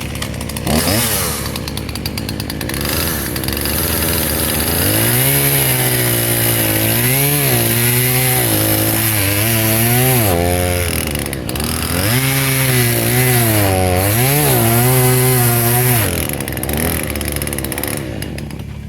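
Husqvarna 120 two-stroke chainsaw bucking a pine log in half. The engine revs up, then its pitch dips and rises repeatedly as the chain bites under load, and it drops back toward idle near the end.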